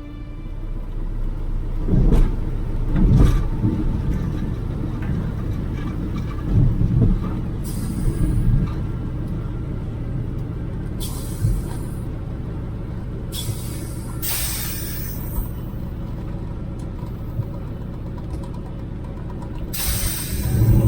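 Antonov An-2's nine-cylinder Shvetsov ASh-62IR radial engine running with a low rumble, two thumps early on and several short hissing bursts. The rumble swells near the end.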